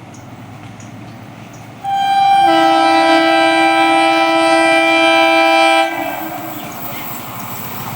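Indian electric train's air horn sounding one long blast of about four seconds, starting on a single note and filling out into a chord half a second in. After it the train runs by on the rails.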